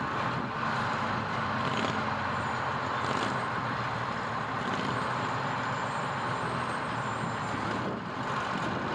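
Fire truck engine running steadily as the truck drives slowly, with road noise.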